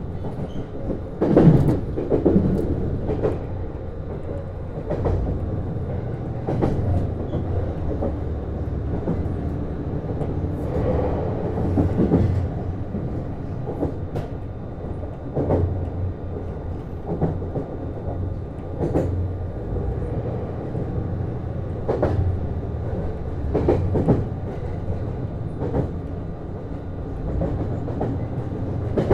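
Running noise inside a JR East HB-E210 series hybrid railcar: a steady low rumble with the wheels clicking over rail joints every second or two.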